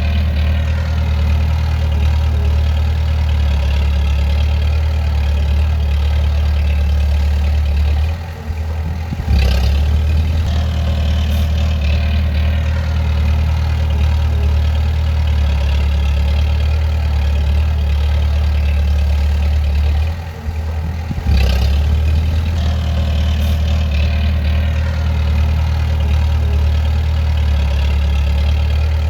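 Bulldozer's diesel engine running steadily at a working pace. Twice, about eight and twenty seconds in, the engine sound dips for about a second and then picks back up sharply.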